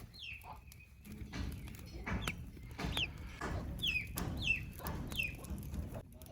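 Chickens calling in a run of short, high calls, each falling in pitch, repeated every half second to a second, over a low rumble.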